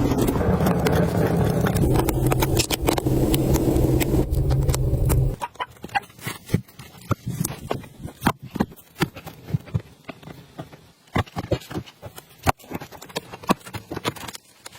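A motor or engine runs steadily for about five seconds, then cuts off suddenly; irregular clicks and knocks follow.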